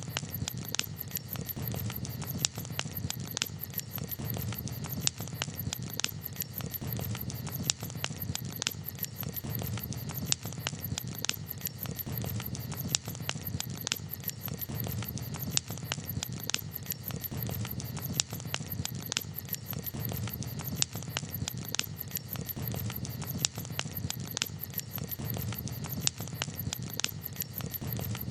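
Wood campfire crackling: many irregular sharp pops and snaps over a steady low rumble.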